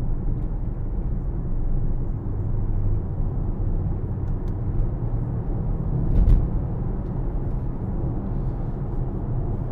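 Cabin noise of a Mercedes-AMG GLC63 S on the move: a steady low rumble of the 4.0-litre V8 biturbo and tyres at cruising speed, with one thump about six seconds in.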